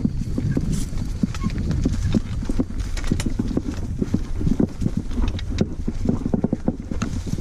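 Mountain bike rattling and clattering over a rough trail: rapid, irregular knocks over a steady low rumble.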